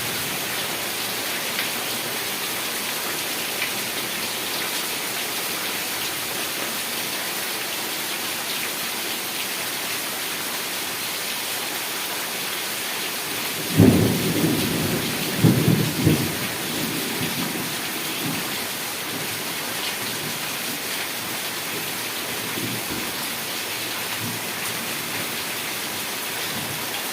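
Heavy rain falling steadily, with a crack and rumble of thunder about halfway through.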